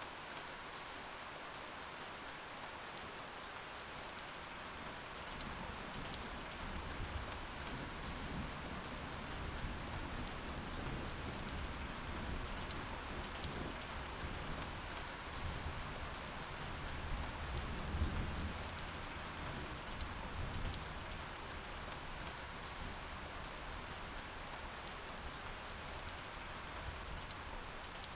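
Steady rain falling, with a low rumble of distant thunder that swells about a quarter of the way in, peaks past the middle and fades again.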